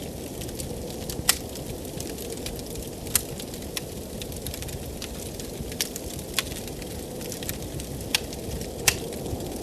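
Wood fire crackling, with about seven sharp pops at irregular intervals, over a steady low rush of blizzard wind.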